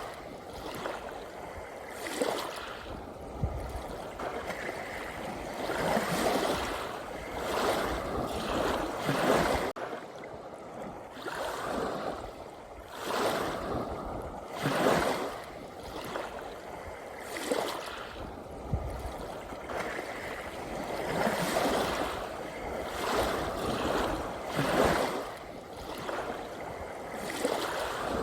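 Ocean waves washing in, a surge every two to three seconds that swells and falls away, with a steady wash of water between.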